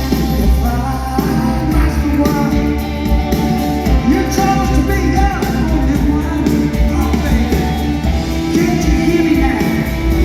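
Live rock band music with a voice singing over it, played at arena-concert volume.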